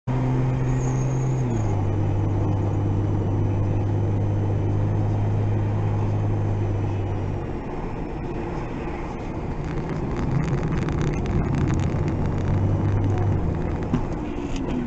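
A car driving, with steady engine hum and road noise picked up by a dashcam inside the car. The engine's pitch drops about a second and a half in.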